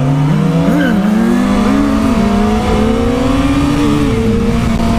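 Motorcycle engines on the road: one climbs slowly and steadily in pitch as it accelerates, while several quick throttle blips rise and fall over it.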